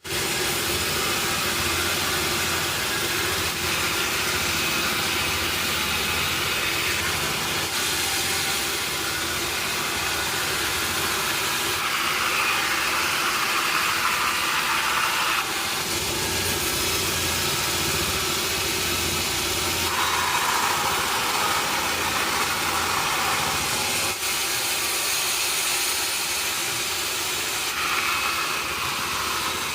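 Sawmill machinery running steadily, with a higher-pitched band of sound that comes in for a few seconds at a time, three times.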